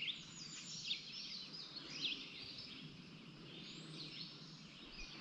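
Small birds chirping and singing, many short quick notes from more than one bird, over faint steady outdoor background noise.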